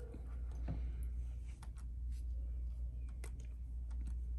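Faint scattered clicks, like keys or a mouse being tapped, over a steady low hum.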